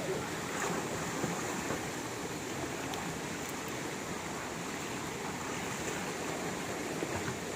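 Waterfall and stream water rushing in a steady, even roar of noise.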